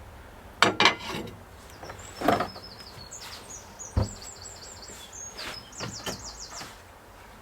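A small bird singing a run of quick, high, repeated chirps outdoors, with several sharp knocks, the loudest about a second in and at four seconds.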